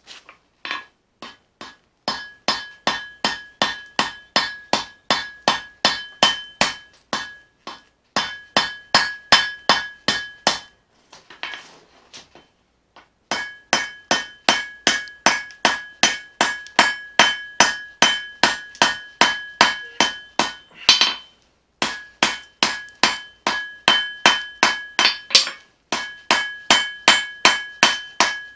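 Hand hammer blows on hot leaf-spring steel over an anvil, forging a knife blade: steady runs of about two to three blows a second, each with a bright anvil ring, broken by a few short pauses.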